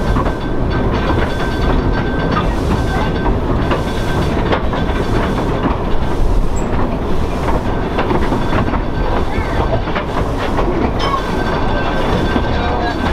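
Narrow-gauge train rolling slowly along the track, heard from aboard a coach: a steady rumble of wheels on rail with occasional knocks from the rail joints.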